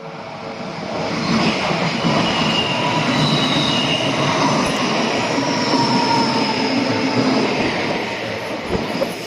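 Odakyu Line electric train passing over the level crossing: a dense rush of wheels on rail that builds over the first second or so, holds loud with some faint high whining tones, and fades near the end.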